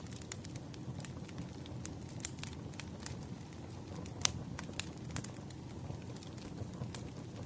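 Campfire crackling: irregular sharp pops and snaps over a low, steady rumble of burning wood, with one louder pop a little past halfway.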